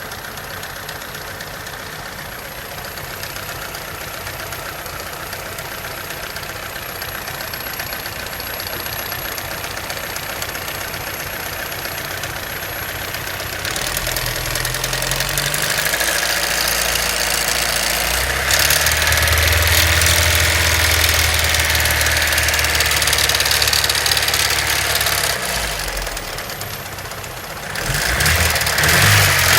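Car engine with a knock coming from under the valve cover, the sign of a valvetrain fault. It idles steadily, then is revved up in steps from about halfway, held high for several seconds, and drops back before being revved again near the end.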